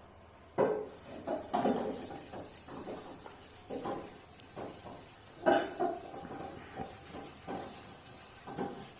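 A baby making short, scattered vocal sounds and mouth noises while eating, mixed with a few sharp knocks.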